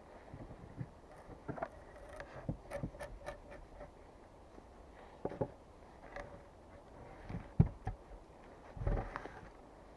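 Irregular light knocks and clicks of things being handled, with one sharper knock about two and a half seconds before the end.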